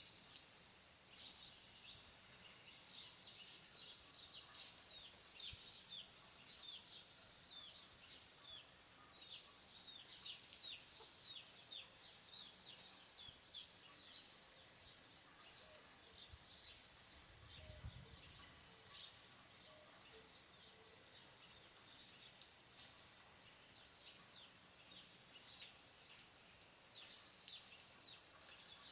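Faint chorus of small birds chirping, many short falling chirps repeating throughout, over a soft steady hiss of light rain.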